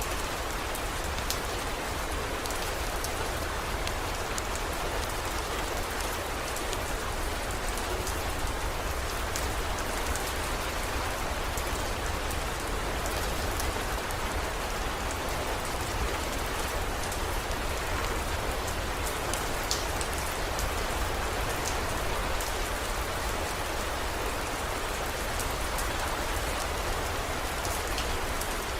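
Steady heavy rain, with fine drop ticks, over a constant low rumble.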